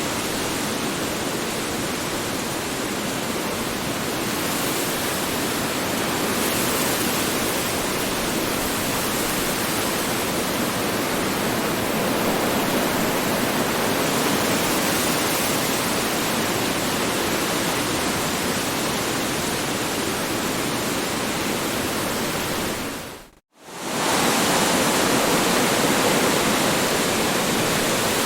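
Strong wind blowing as a steady rushing noise. About three-quarters of the way through it fades out to silence for a moment, then comes straight back a little louder.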